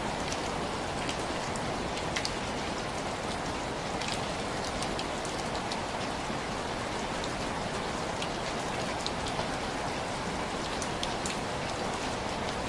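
Heavy rain falling steadily, a dense even hiss with scattered small sharp ticks from individual drops or crackles.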